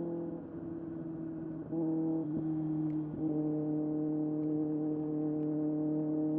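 Kawasaki ZX-6R's inline-four engine running at steady high revs under way, a smooth drone. It gets louder about two seconds in, with small shifts in pitch before it settles into a steady note.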